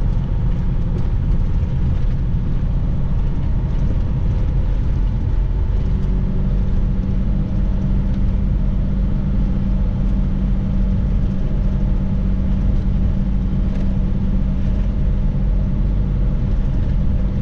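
Semi-truck's Jake brake (engine compression brake) running steadily, fighting about 44,000 pounds pushing the truck down a steep 9% grade. Its note changes about six seconds in.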